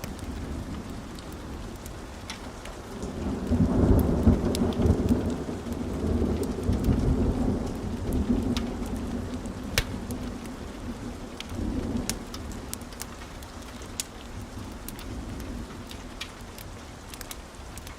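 Steady rainfall with a rolling thunder rumble that swells about three seconds in, peaks a second later and fades over several seconds, then a smaller rumble near twelve seconds. Scattered sharp crackles run throughout.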